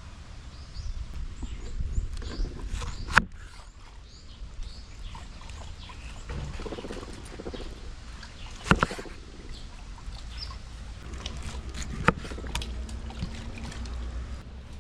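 Three sharp knocks, a few seconds apart, over a steady low rumble.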